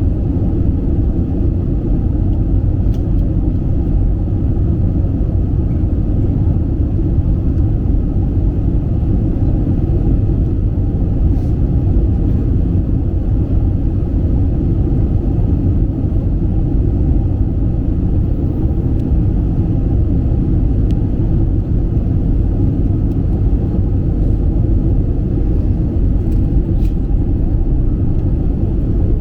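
Airbus A320 cabin noise: a steady low rumble of engines and airflow heard from a window seat during the approach to landing.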